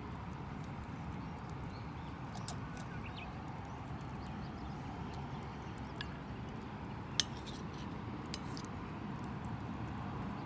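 A few sharp clicks and clinks over a steady low background, the loudest single click about seven seconds in and a smaller one just over a second later.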